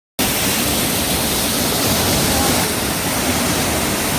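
Mountain waterfall: a loud, steady rush of falling water.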